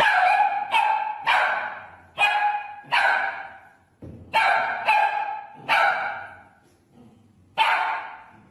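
A dog barking, about nine loud, high-pitched barks in short runs of two or three with brief pauses between.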